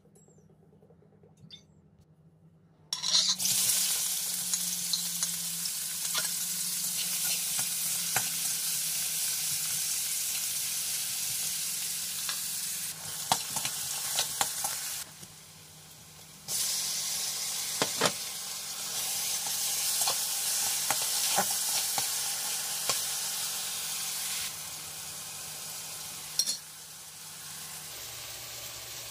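Chopped onions and garlic sizzling in hot oil in an aluminium kadai, with a metal spatula clicking and scraping against the pan as they are stirred. The sizzle starts suddenly about three seconds in, drops away briefly around the middle, and is quieter near the end.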